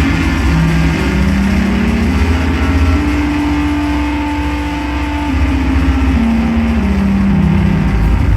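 Loud live drone-noise music: a dense low rumble under sustained droning tones that step up and down in pitch, with one higher tone held from about three to five seconds in.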